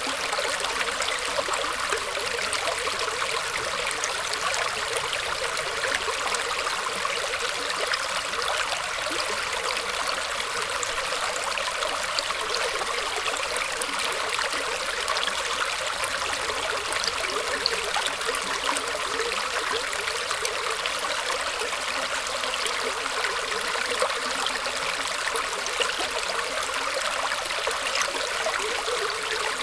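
Shallow stream water flowing and trickling steadily, a continuous bright rush with many small splashes and bubbling crackles.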